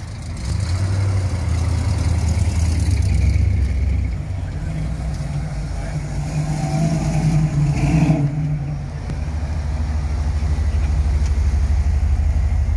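Car engine rumbling deep and steady. Its note climbs and gets louder for a few seconds past the middle, then drops back to the low rumble.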